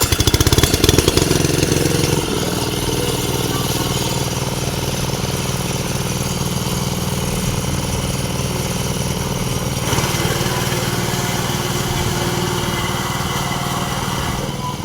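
Diesel engine of a walk-behind crop reaper running. It is louder in the first two seconds with rapid, distinct firing pulses, then settles into a steady run.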